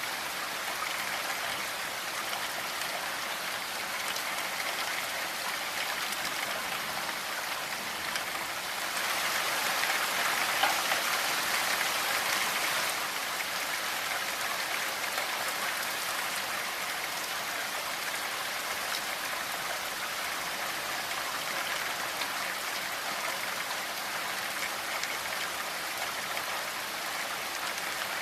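Steady rainfall with close drops pattering on a surface, swelling heavier for a few seconds about a third of the way in.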